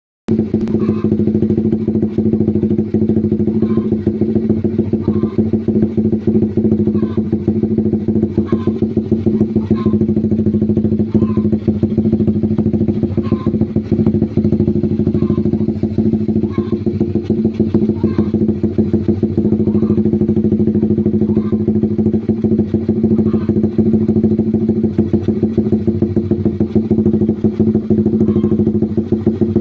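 Motorcycle with a newly fitted aftermarket exhaust idling at a steady, even note, with no revving.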